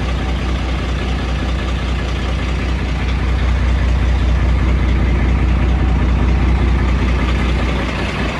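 Heavy diesel truck engine running steadily with a deep, even pulse, getting a little louder about three seconds in and easing again near the end.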